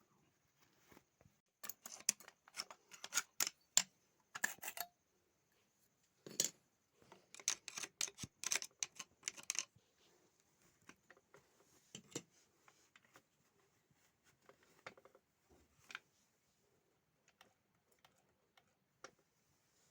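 Sewing machine being worked on by hand: two runs of rapid small metallic clicks and taps lasting a few seconds each in the first half, then scattered single clicks.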